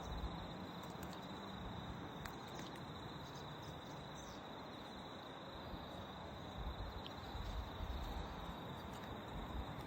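Faint, steady high-pitched trilling of crickets, a fast even pulse that never stops, with a low rumble coming and going in the second half.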